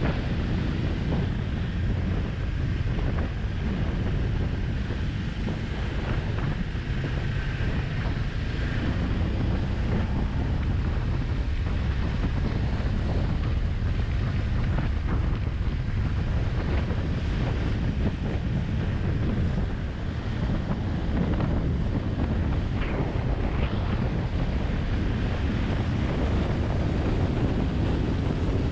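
Wind buffeting the microphone of a moving motorcycle: a steady low rushing noise with the engine not distinctly heard.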